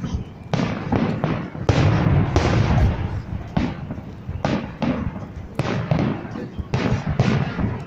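Fireworks salute: aerial shells bursting in a string of booms about once a second, each with a low rumbling echo.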